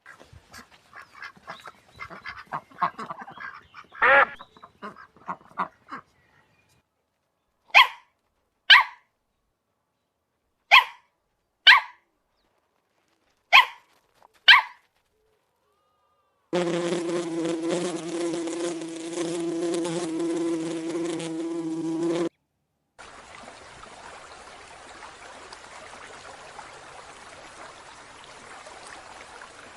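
A run of short animal calls: irregular clucking-like calls for the first few seconds, then six short calls in three pairs. After that comes a steady insect-like buzz for about six seconds, which breaks off and gives way to a steady hiss.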